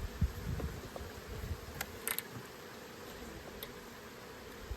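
Honeybees buzzing as a steady hum around an open hive, with a few light clicks about two seconds in and again near the end.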